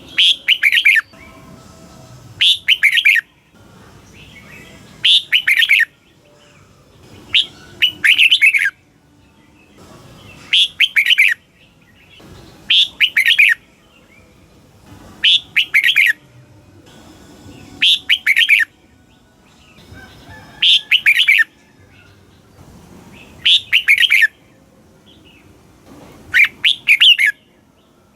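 Red-whiskered bulbul singing: short, bright warbled phrases repeated about every two and a half seconds, the kind of song played to caged bulbuls to rouse them.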